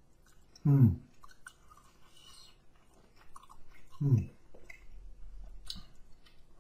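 A person chewing food close to the microphone, with small wet mouth noises, and two short hums falling in pitch, about a second in and again about four seconds in.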